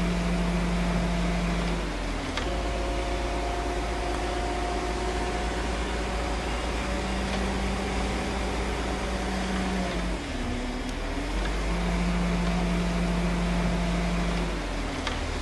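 Bulldozer's diesel engine running steadily under load. Its pitch shifts about two seconds in, then dips briefly and picks up again about ten seconds in.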